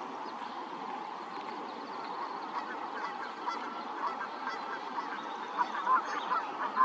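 Waterfowl calling: a run of short honking calls that grows busier and louder toward the end, over a steady background hiss.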